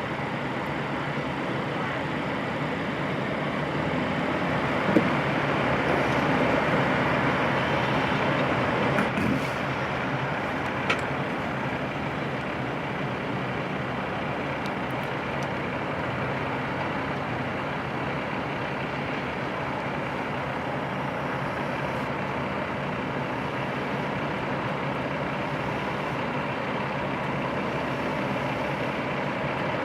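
Heavy truck engine running steadily, growing louder for a few seconds about 4 s in, with a few sharp clicks.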